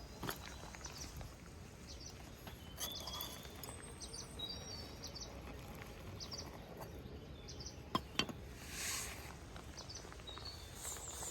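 Outdoor ambience: a steady low rumble with scattered short bird chirps, two sharp clicks about eight seconds in and a brief rushing swell just after.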